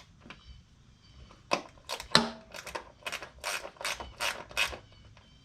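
Hand ratchet wrench clicking in a steady run of sharp clicks, about three a second, as a bolt is worked; it is being turned the tightening way, not loosening it.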